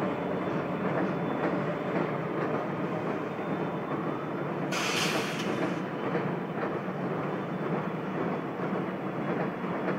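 Indiana Rail Road diesel locomotives hauling a train slowly across a tall steel trestle, a steady rumble. A short burst of hiss comes about halfway through.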